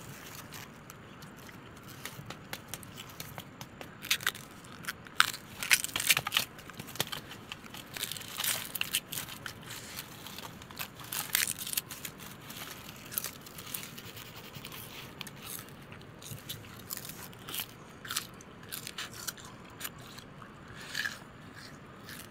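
Crunchy food being bitten and chewed: irregular crunches and scrapes, most frequent in the first half, thinning out later.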